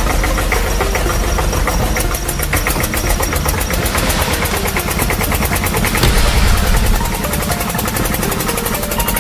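An engine-like running sound with a rapid, even pulse, steady throughout and briefly louder about six seconds in.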